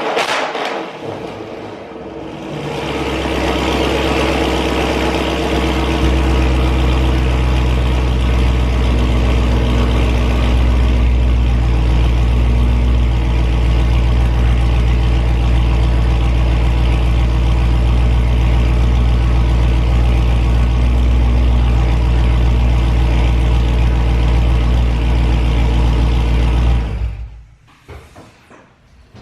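Dodge Charger Scat Pack's 392 HEMI V8 idling on a cold start through a catless exhaust with the mid muffler deleted. The steady idle note steps up about six seconds in, holds, then cuts off suddenly near the end.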